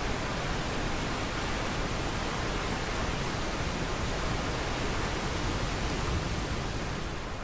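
Falling water rushing in a steady, even roar of noise with no rhythm or tone, which cuts away suddenly at the end.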